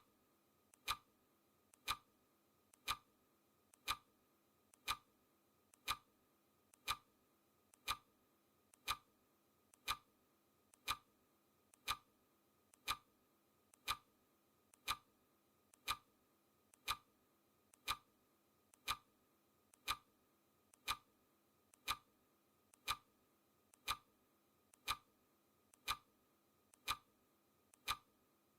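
Clock ticking sound effect: one sharp tick every second, steady and even, each with a faint softer click just before it.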